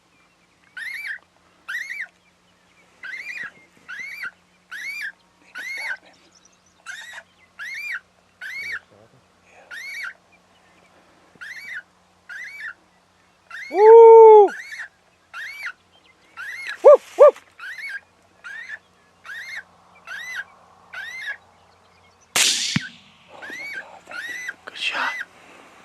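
Electronic predator call playing the MFK Woods Rat distress sound: short, high squeaks repeating a little faster than one a second. About halfway through comes one loud, lower call lasting about a second, then two short sharp squeaks, and near the end a single sharp crack of a rifle shot.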